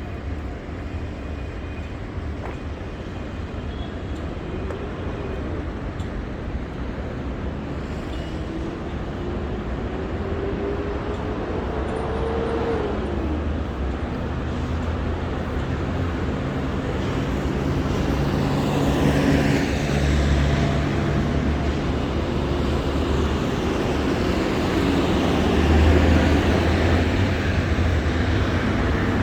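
City street traffic: vehicle engines running and passing. About twelve seconds in, one engine rises in pitch as it speeds up, and the traffic grows louder toward the end.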